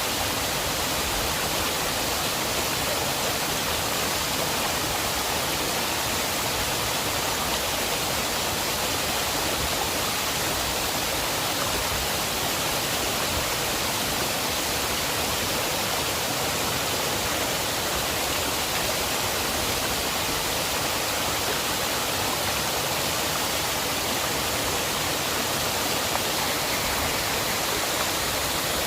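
River water rushing, a steady, unbroken noise with no change in level.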